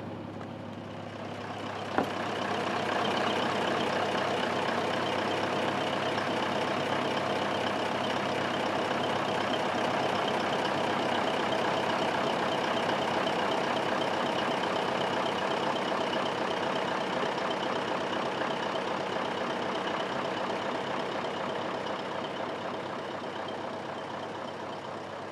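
V8 diesel truck engine driving a small boat, running hard as a steady loud drone with a whine in it. It swells up about two seconds in, just after a sharp click, and slowly fades near the end.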